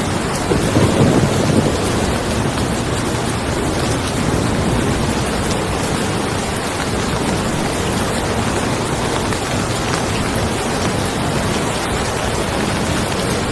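Steady rain falling on a car, with a low roll of thunder swelling about half a second in and fading after a second or so.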